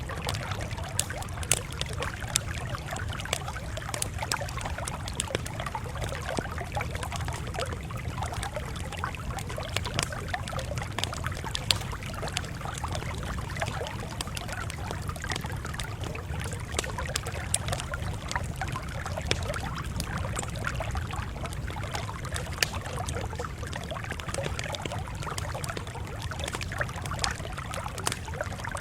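Campfire crackling, with many small sharp pops at irregular intervals over a steady low rumble.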